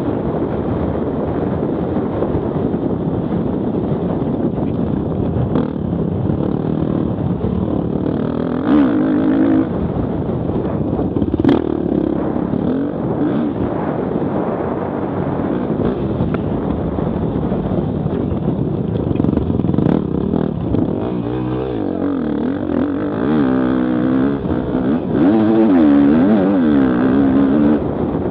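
Enduro motorcycle engine running hard on a dirt track, its revs rising and falling again and again with throttle and gear changes. A single sharp knock about eleven seconds in.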